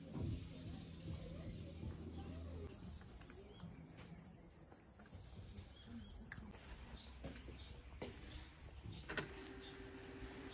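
Faint outdoor ambience with a bird chirping: a short, high, falling note repeated about three times a second through the middle, then more scattered high chirps.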